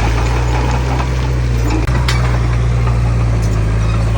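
Heavy diesel engine of earthmoving machinery running steadily with a deep, even drone, with a few light metallic clinks about halfway through.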